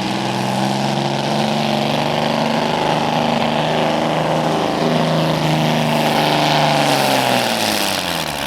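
Hot Stock pulling tractor's diesel engine running under full load down the track, its note falling near the end.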